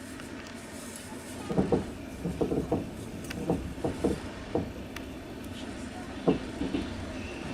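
Passenger train running, heard inside the carriage: a steady low rumble of wheels on track, with irregular clanks and knocks from about a second and a half in.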